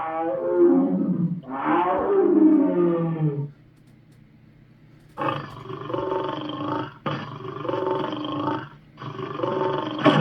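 Monster roar sound effects for the demon Chernabog. Two roars that fall in pitch, then, after a short pause, three longer, steadier roars one after another.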